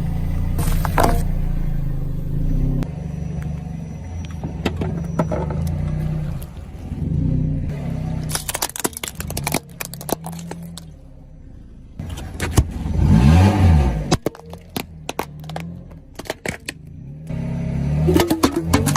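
Car engine running, its pitch rising and falling once about two-thirds of the way through, with scattered sharp cracks and crunches as something is crushed.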